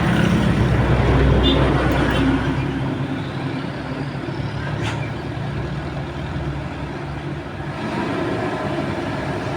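Heavy diesel engine of construction machinery running steadily, louder for the first few seconds and then easing off.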